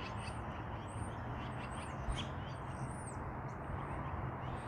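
Several short, high, thin bird calls of small birds over a steady low background rumble of distant road traffic.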